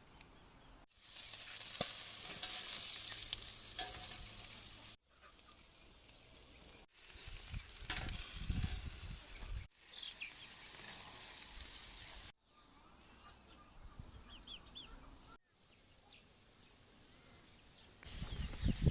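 Meat sizzling over hot coals on a mangal grill, heard in several short clips that start and stop abruptly. Faint bird chirps come in around the middle.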